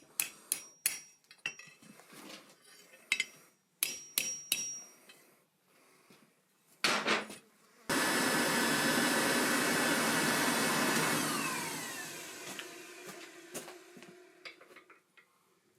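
Hammer blows ringing on steel at the anvil, a quick run of strikes over the first few seconds. Then a loud, steady rushing noise starts abruptly about halfway through and dies away over a few seconds with a falling whine.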